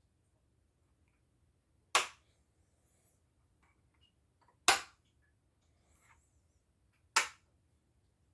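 Three sharp plastic clacks, about two and a half seconds apart: 3D-printed magnetic tic-tac-toe pieces snapping onto the board as they are played.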